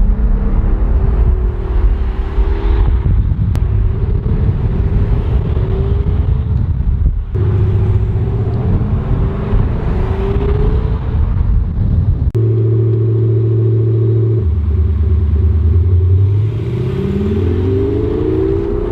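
Simulated combustion-engine exhaust note played through a Tesla's active-sound speaker system, running steadily with abrupt changes in tone partway through, then revving up near the end.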